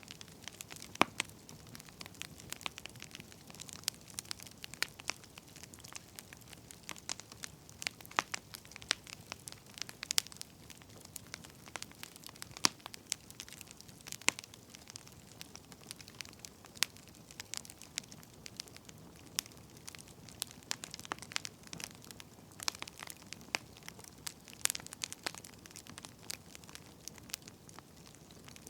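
Firewood burning, crackling with irregular sharp pops over a faint low steady rush of the fire.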